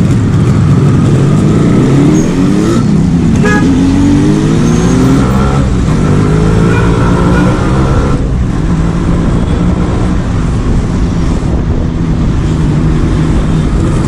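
Yamaha RX 135's two-stroke single-cylinder engine accelerating from low speed, its pitch climbing in two long pulls and dropping sharply about eight seconds in, then running at a steadier speed.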